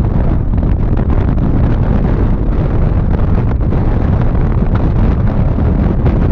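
Steady low road noise and wind rumble from a car driving along, with wind buffeting the microphone.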